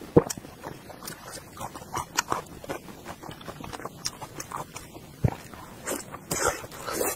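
Close-miked wet chewing and lip smacking on soft, fatty braised pork: a string of short, sticky smacks. There is a loud one just after the start, and a run of louder smacks near the end as a fresh piece goes into the mouth.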